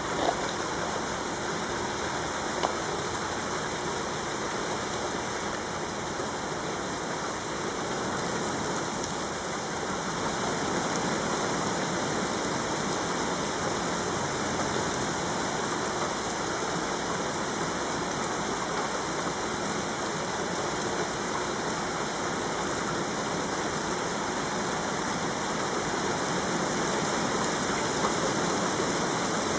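Heavy rain pouring down steadily, with a few sharp single ticks, one near the start and one near the end.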